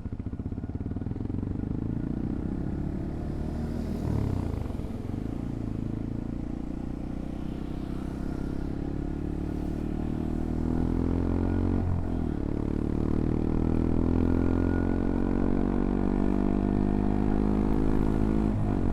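CFMoto Papio XO-1 125 cc single-cylinder motorcycle engine under way, pulling at low revs, then climbing steadily in pitch as it accelerates, with a brief dip in revs for a gear change about twelve seconds in and another near the end.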